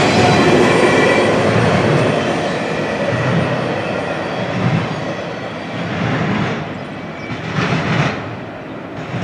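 Double-stack intermodal freight cars rolling past on the rails, the wheel clatter slowly fading as the tail end of the train moves away. Two brief louder rushes of noise come near the end.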